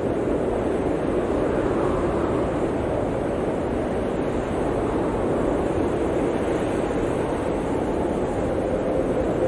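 Blizzard wind blowing steadily: a dense, even rush of noise with slow swells and a faint whistle rising and falling.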